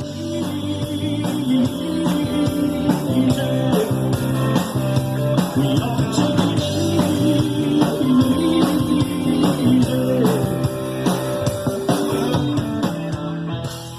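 Rock and roll band music: electric guitar over a drum kit keeping a steady beat, fading out near the end.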